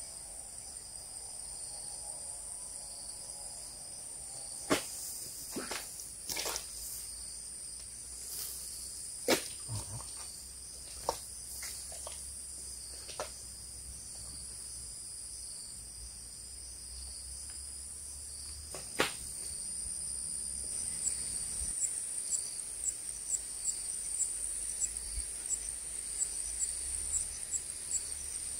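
A steady, high-pitched chorus of insects, with scattered sharp clicks in the first two-thirds. About three-quarters of the way in, another insect joins with a regular pulsing chirp about three times a second.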